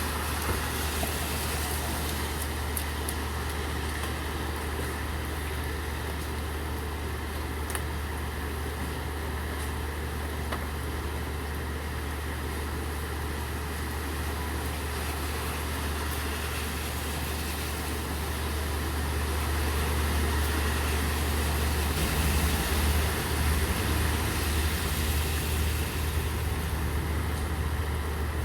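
Steady rain falling, over the constant low hum of a vehicle engine idling, which grows louder about two-thirds of the way through.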